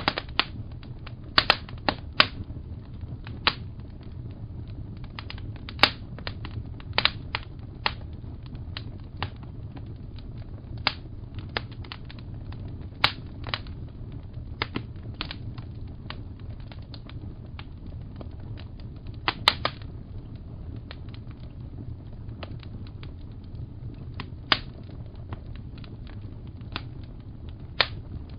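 Fireplace fire crackling: irregular sharp pops and snaps, some in quick clusters, over a steady low rumble of the burning fire.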